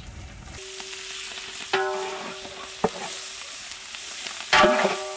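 Pieces of goat intestine sizzling in hot oil with fried onions in a large pot, stirred with a ladle. Background music with a held note and plucked strings comes in about half a second in, its plucked notes the loudest sounds.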